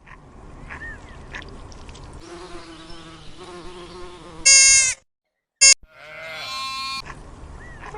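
Bleating from farm livestock: a loud, high call about halfway through that cuts off abruptly, a short call just after, and a longer wavering call a second later, over a noisy background with faint lower calls.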